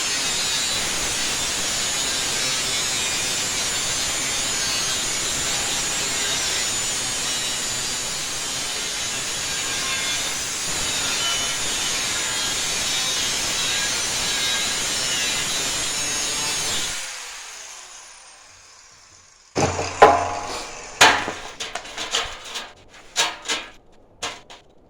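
A handheld power tool runs steadily for about seventeen seconds, then is switched off and spins down with a falling whine. Several sharp clanks and knocks follow near the end.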